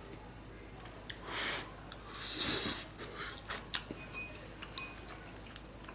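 A person eating ramen noodles: two short slurps, the second and louder one near the middle, among chewing and small clicks of utensils against the bowl.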